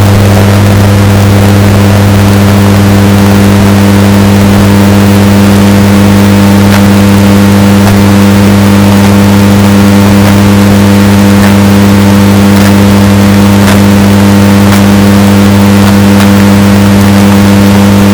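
Washing machine running with a steady, unbroken motor hum, heavily bass-boosted and distorted, with faint scattered clicks over it.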